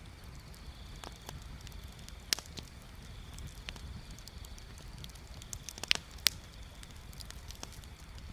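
Wood bonfire crackling, with scattered sharp pops, the loudest a little after two seconds and twice around six seconds, over a low steady rumble.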